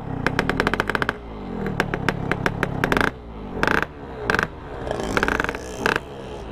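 Small motorcycle engine running, its pitch rising and falling repeatedly, over many sharp knocks and rattles.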